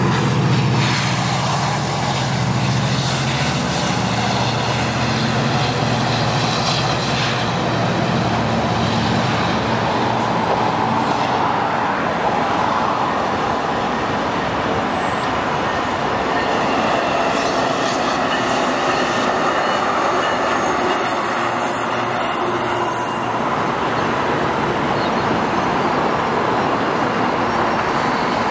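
GO Transit commuter train passing, led by two MP54AC diesel locomotives: a low engine drone for about the first ten seconds under steady steel-wheel rumble. High wheel squeal comes and goes.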